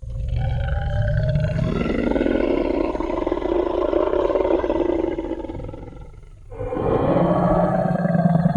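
Tyrannosaurus rex roar sound effect: one long, loud roar of about six seconds that fades out, then a second roar begins about a second later.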